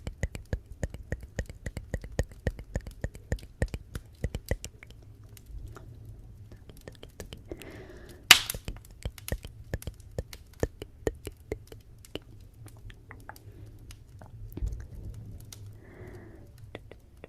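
Wood fire crackling in a fireplace: a run of sharp crackles and pops over a low steady rumble, with one loud pop about eight seconds in. The crackles thin out in the second half.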